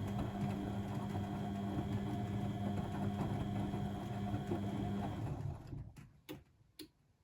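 Blomberg WAF 7442 SL washing machine running with a steady hum and a high whine, which winds down and stops about five and a half seconds in. Three sharp clicks follow near the end.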